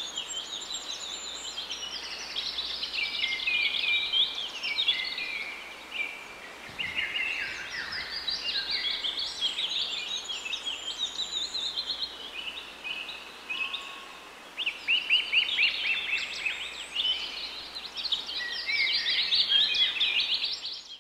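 Songbirds singing and chirping, many high trills and quick notes overlapping, with the busiest runs of notes about fifteen seconds in and again near the end.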